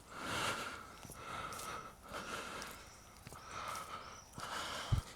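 A man breathing hard close to the microphone while walking, with breaths coming and going about once a second, and a single low thump near the end.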